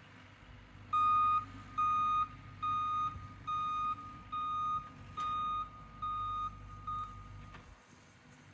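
Backup alarm on the power-raking machine beeping about eight times, a little more than one beep a second, over the low hum of its engine, which cuts out shortly after the beeping stops.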